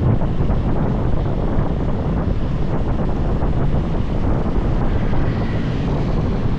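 Wind buffeting the microphone of a moving motorbike, with the bike's running and road noise underneath, steady throughout.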